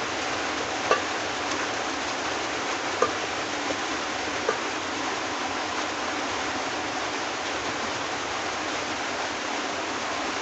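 Steady hiss of rain, with a few faint sharp ticks in the first half.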